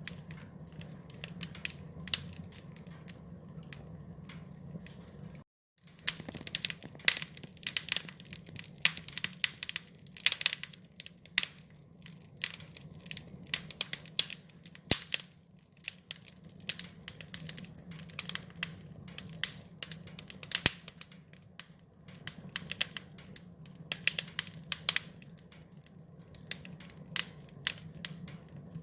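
Wood fire crackling: a steady low rumble of flames under many irregular sharp pops and snaps. The sound cuts out completely for a fraction of a second about five and a half seconds in, then resumes.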